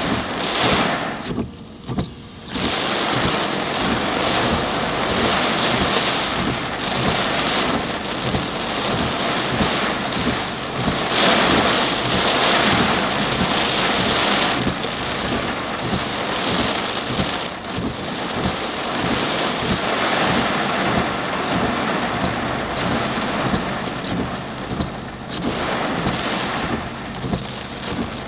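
Torrential downpour pelting a moving car, a dense, steady rain noise that drops briefly about two seconds in and grows louder for a few seconds around the middle.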